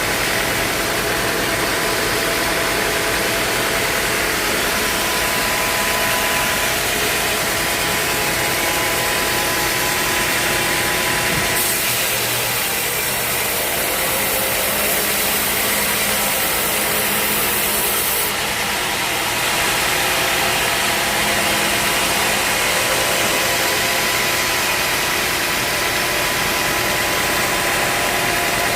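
A sawmill's engine running steadily. An added high hiss comes in about twelve seconds in and stops about six seconds later.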